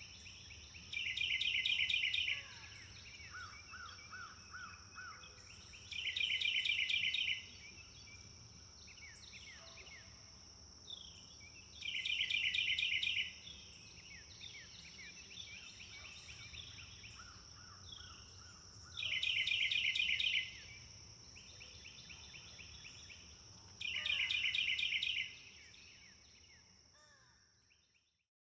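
Forest birds singing: one bird repeats a loud, rapid trilling phrase five times, about every five to six seconds, with softer chirps and whistled notes between, over a steady high insect buzz. It all fades out near the end.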